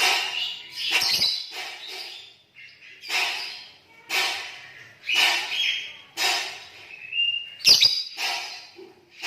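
Green lovebirds singing: rasping, chattering bursts with high whistled notes, repeating about once a second. A sharp click sounds near the end.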